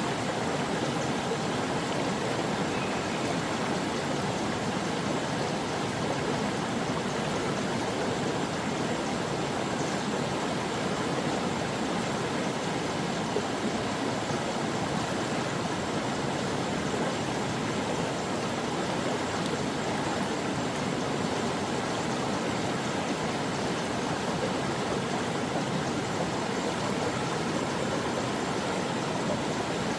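A stream of water flowing steadily over rocks, a constant rushing and babbling with no breaks.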